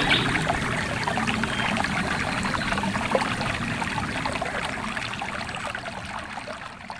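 Stream water flowing and splashing steadily, gradually fading out toward the end.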